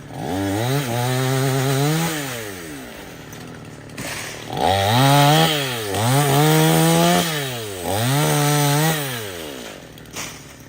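Two-stroke chainsaw throttled up to high revs four times, holding each time for a second or two before dropping back toward idle. Its pitch climbs and falls with each pull of the trigger, as in cutting through a limb.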